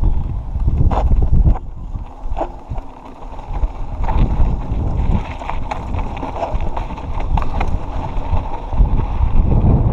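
Wind buffeting the microphone during a fast mountain-bike descent, over the crunch of tyres on a dirt trail and frequent short clicks and rattles from the bike over rough ground.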